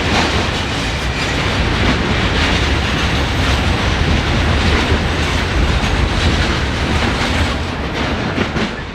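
Freight train passing through, its wagons rattling and clicking over the rail joints in a steady, loud rumble that eases slightly near the end.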